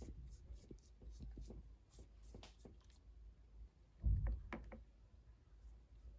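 Faint, scattered scratchy brushing as a thick paintbrush spreads paint over a hand, with one dull thump about four seconds in.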